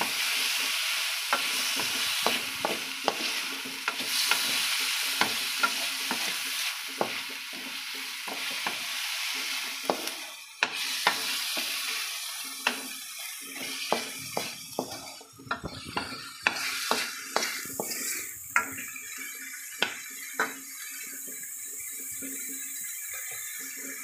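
Chicken pieces sizzling in a wok while a wooden spatula stirs them, with frequent clicks and scrapes of the spatula against the pan. The sizzle is strongest in the first half and dies down after about ten seconds, leaving mostly spatula taps.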